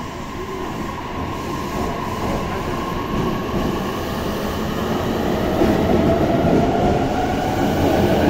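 Narita Express (E259 series) electric train moving past a platform and gathering speed: a steady rail and running rumble that grows louder, with a faint motor whine slowly rising in pitch.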